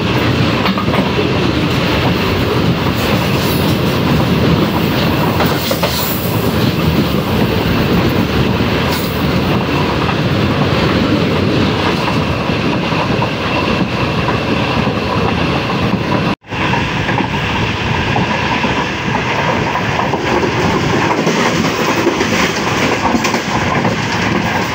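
Express passenger train running along the track, a steady loud rumble and clatter of coach wheels on the rails heard from an open coach window. The sound cuts out for an instant about two-thirds of the way through.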